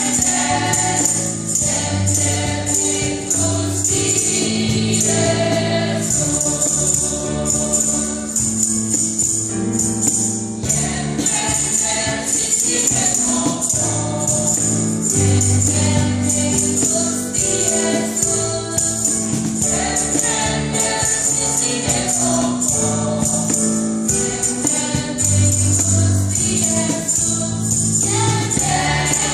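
A church choir singing in several parts at once, in long held notes that change every second or two.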